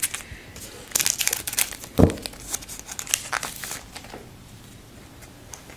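Plastic wrapper of a trading-card pack being torn open and crinkled in the hands, in two bouts of crackling, with a single thump about two seconds in.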